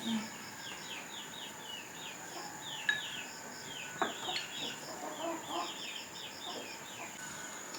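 Chickens calling: many short, high, falling peeps in quick runs, with a few lower clucks around the middle. A steady high-pitched insect drone runs underneath, and a couple of light knocks sound about three and four seconds in.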